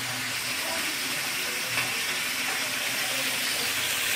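Breaded chicken cutlets frying in hot oil in a pan: a steady sizzle that grows a little louder near the end.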